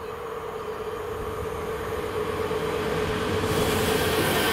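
České dráhy InterPanter electric train approaching over the level crossing: a steady hum growing louder, then loud rushing wheel-and-rail noise setting in about three and a half seconds in as it arrives.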